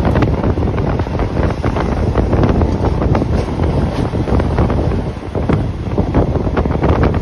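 Moving train rumbling and rattling, with wind buffeting the microphone.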